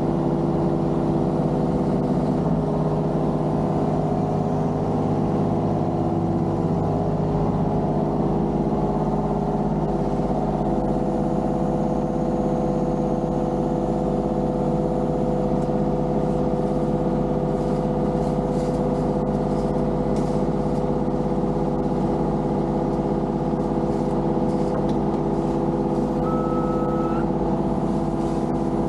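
Diesel engine of heavy equipment running steadily at a constant speed, with faint clicks and a short high beep near the end.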